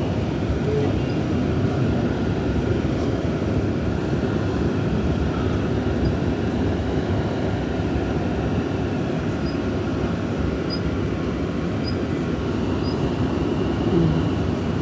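Steady low rumble inside a Pittsburgh T light-rail car as it runs along the line, with a few faint high ticks in the second half.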